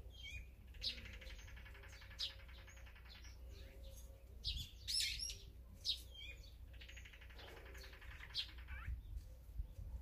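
Wild birds calling: scattered sharp chirps and short downward-sweeping calls, and twice a harsh buzzing trill lasting about two seconds, once about a second in and again about seven seconds in.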